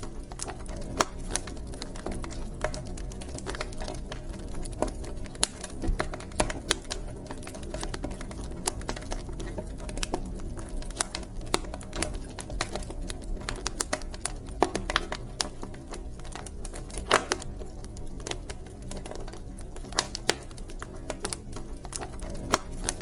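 Wood fire burning in a fireplace, crackling with irregular sharp snaps and pops over a low, steady rumble of flames.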